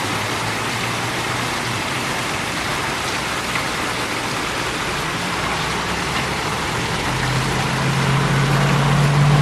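Steady hiss of heavy rain falling. About seven seconds in, a low steady hum, like a vehicle engine, comes up and grows louder.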